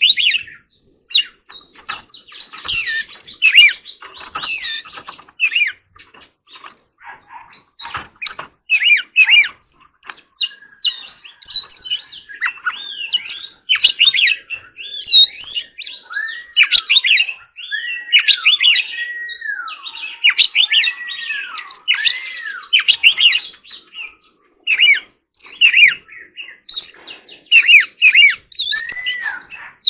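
Oriental magpie-robin singing a long, varied song of rich whistled phrases and quick chirps, with a run of arching rise-and-fall whistles in the middle.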